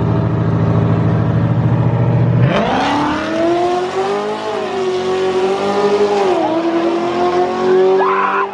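Drag race car's engine running steadily at the start line, then launching about two and a half seconds in with a sudden loud rise in pitch as it accelerates away. The engine note then holds high, dipping briefly twice.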